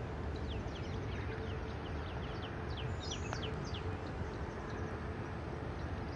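Birds chirping: a run of quick chirps that fall in pitch, several a second, over a steady low background rumble.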